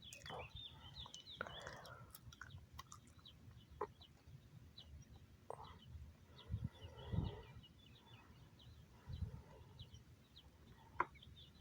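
Faint outdoor bird ambience: scattered short chirps and clucks over a low rumble.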